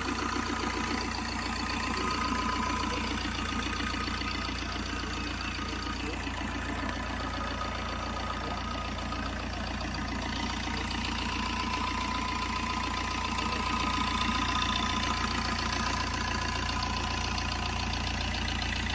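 Maruti Suzuki Swift DDiS turbo-diesel engine idling steadily with an even diesel clatter and a thin steady whine above it.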